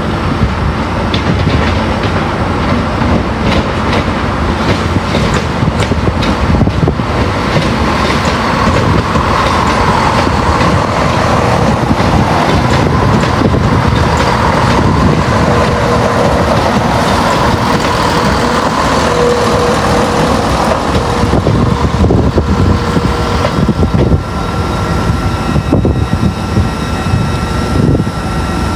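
A train moving through the station: a steady, loud rumble of wheels on rails. Faint steady tones rise over it partway through, and it eases slightly near the end.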